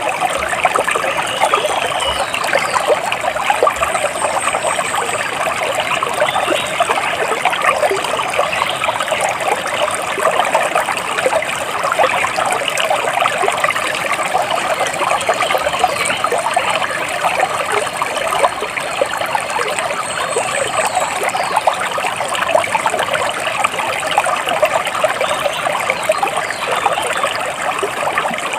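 Running water trickling and splashing steadily, a dense, even patter, with a few faint high bird calls over it now and then.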